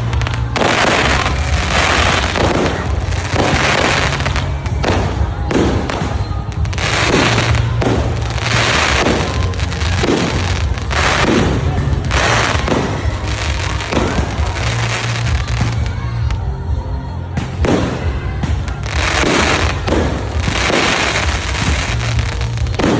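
Fireworks going off one after another, a sudden bang or crackling burst about every second, over a steady low drone.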